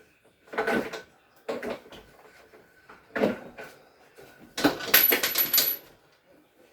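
Refrigerator parts and tools being handled during a repair: a run of short knocks, rattles and scrapes, the loudest a longer clatter about five seconds in with a brief high ring over it.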